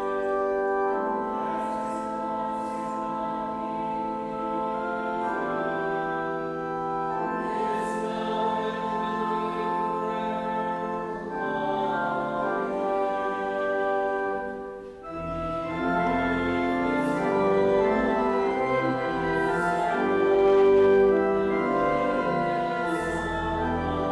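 Organ playing slow, sustained chords that change every second or two; after a short dip about fifteen seconds in, deep bass pedal notes join.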